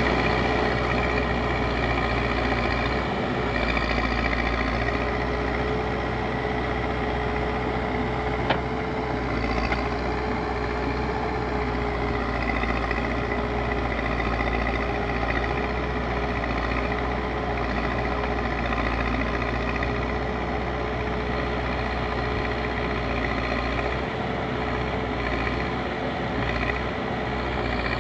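Backhoe loader's diesel engine running steadily, with a single sharp clank about eight seconds in.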